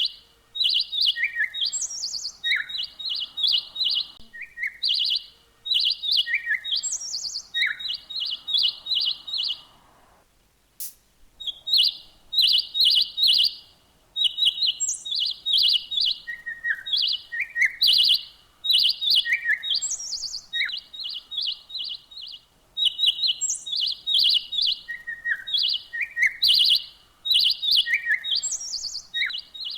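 A songbird chirping in quick runs of short, high notes, mixed with a few down-slurred calls. The phrases last a few seconds each, with brief pauses and a longer break about ten seconds in.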